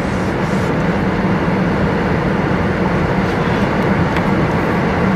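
A steady, loud mechanical drone with a constant low hum, unchanging throughout.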